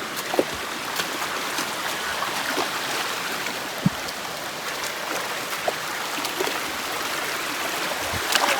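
Steady rush of flowing river water, with a few brief clicks through it.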